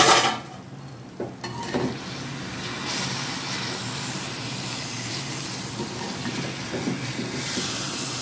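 A metal clank at the start, then thick brinjal masala sizzling in oil in a kadai as a steel spatula stirs it, with a few light scrapes against the pan. The sizzle grows a little louder about three seconds in and then holds steady.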